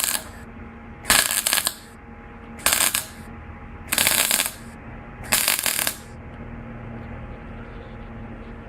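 Electric welding arc crackling in five short bursts about a second and a half apart, short welds laid one after another, then a pause from about six seconds in. A steady low hum runs underneath.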